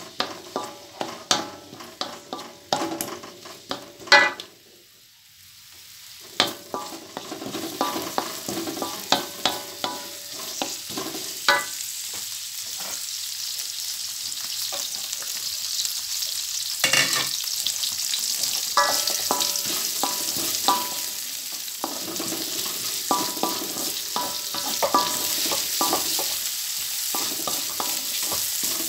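Sliced shallots and garlic frying in oil in a wok, stirred with a wooden spatula that scrapes and knocks against the metal pan in repeated strokes. After a short lull about five seconds in, the sizzle of the oil builds and then holds steady, with the spatula strokes going on over it.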